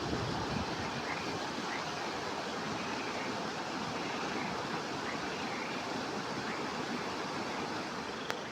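A steady rushing noise, with faint short high chirps scattered through it and a single sharp click near the end.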